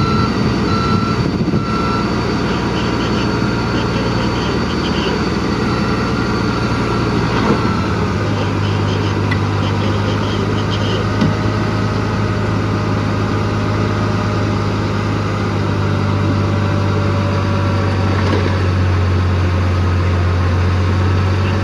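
Heavy construction machine's diesel engine running steadily, its low note shifting about seven seconds in, with a few short high beeps near the start.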